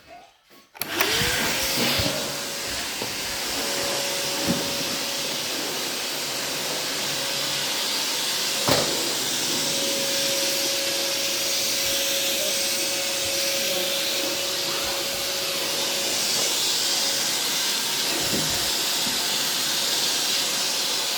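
Vivax Neo vacuum cleaner switched on about a second in. Its motor spins up to speed, then runs steadily with a loud hiss and a steady hum, broken by a few brief knocks.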